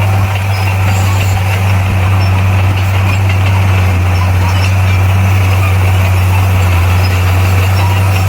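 Bulldozer's heavy diesel engine running loud and steady, with a constant low drone and no change in pitch.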